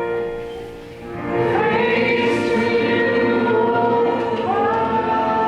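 Church choir singing a sung response. Steady held notes sound first, and the voices come in fuller about a second and a half in, holding long notes.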